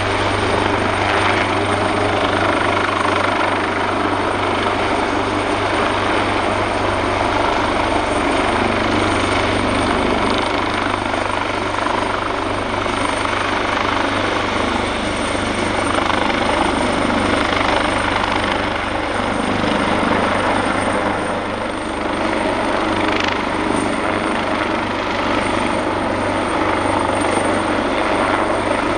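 AgustaWestland AW139 helicopter running, its two Pratt & Whitney Canada PT6C turboshaft engines driving the five-bladed main rotor. The sound is steady and loud, with a thin high whine above the rotor noise.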